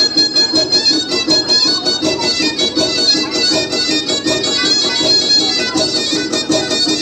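Black Sea folk dance music led by a fast-bowed fiddle, the kemençe of Trabzon horon music, with a rapid, even pulse.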